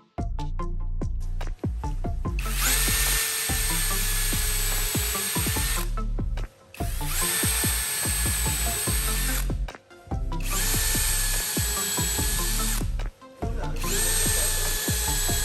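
Electric power tool running in four bursts of about three seconds each, its motor pitch rising briefly at the start of each burst and then holding steady. Background music with a steady low beat plays underneath.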